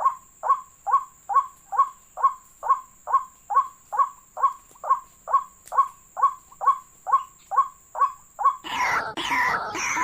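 Waterhen calling: a short, downward-sliding note repeated evenly about twice a second. Near the end it changes abruptly to a louder, denser run of overlapping calls.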